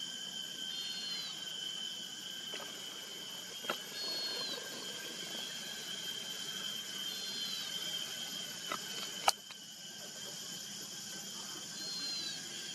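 Outdoor insect chorus: a steady high-pitched trilling, with a short chirp repeating about every three seconds and a few sharp clicks, the loudest about nine seconds in.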